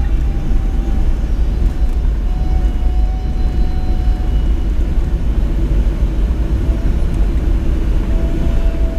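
Boeing 737 cabin noise on the ground after landing: a steady low rumble from the jet engines with a faint steady whine over it.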